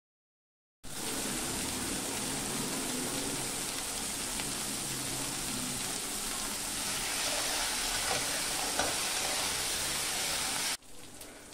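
Fresh fenugreek leaves sizzling steadily as they roast in a hot pan with cumin. The sizzle starts abruptly about a second in and drops sharply to a quieter sizzle near the end.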